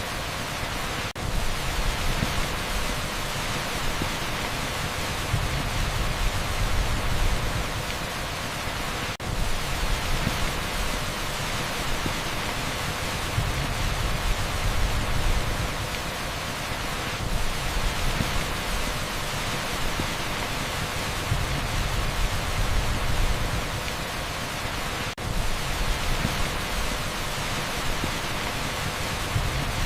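Torrential rain on an asphalt street blended with strong pink noise: a dense, even hiss with a deep rumbling low end. It drops out for an instant three times, about a second in, about nine seconds in and near twenty-five seconds.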